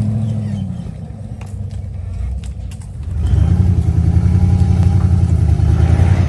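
Off-road rig's engine on a rock-crawling trail: the revs fall away in the first second, the engine runs low and quieter, then about three seconds in it revs up and holds a steady note under load.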